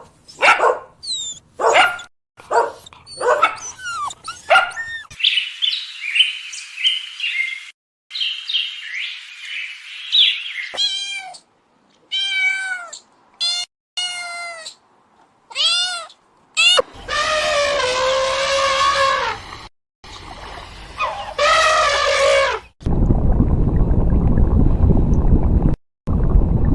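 Domestic cats meowing in a run of short separate calls, some long and drawn out. Near the end a steady rushing noise takes over.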